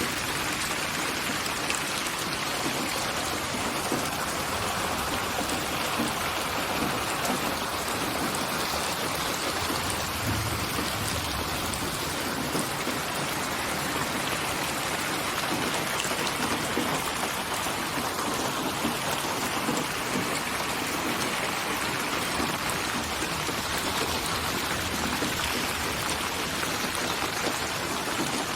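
Steady rain falling as an even, unbroken hiss of many drops, played as a white-noise rain track.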